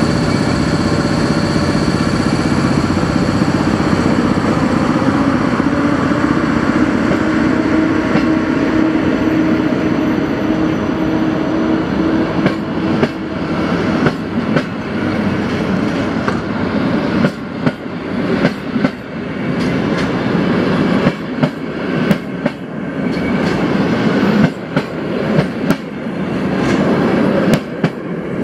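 A PKP Intercity electric locomotive and its passenger coaches rolling past. A steady hum runs under the train noise for the first ten seconds or so, then the coaches' wheels clatter over the rail joints in a run of sharp clicks.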